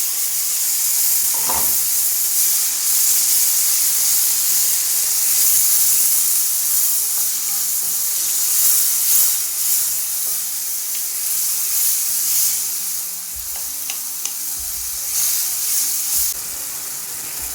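A tomato-based curry sauce sizzling in a hot pan as blended tomatoes cook into fried onions, peppers and tomato paste, with a spoon stirring and scraping through it. A steady high hiss, with short scrapes now and then.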